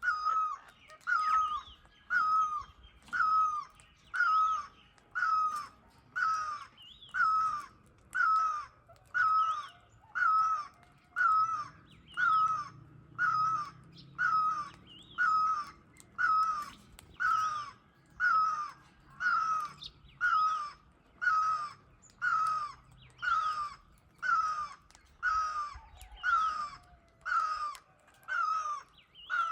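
A bird giving the same short call over and over, very evenly, about once a second.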